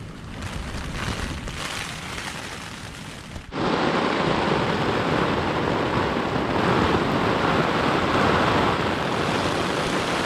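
Heavy rain, a steady rushing hiss. It is fairly soft for the first three and a half seconds, then suddenly becomes much louder and stays steady.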